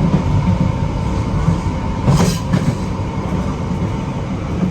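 London Underground Piccadilly line train running, a steady heavy rumble of wheels on rails heard from inside the carriage, with a brief burst of noise about two seconds in.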